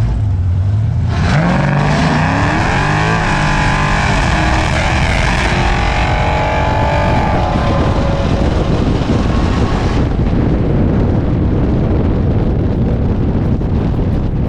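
Nitrous-equipped Dodge Challenger launching at full throttle from the drag strip's start lights, its engine pitch climbing and then dropping with each upshift. Later the engine note fades and a steady rush of wind and road noise is left.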